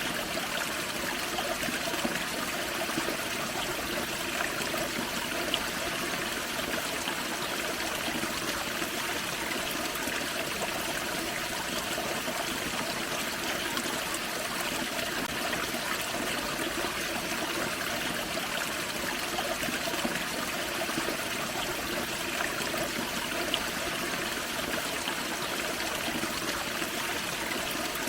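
Small forest creek running over a small waterfall: a steady rush and trickle of water with small splashes now and then.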